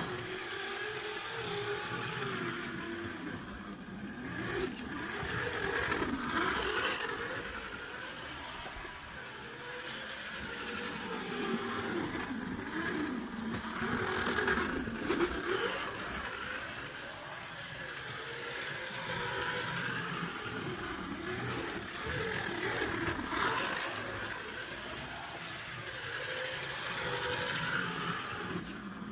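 1/24 scale slot car's Strombecker electric motor and Cox gears whining, the pitch rising and falling over and over as the car speeds up and slows around the track. A few sharp clicks, the loudest about 24 seconds in.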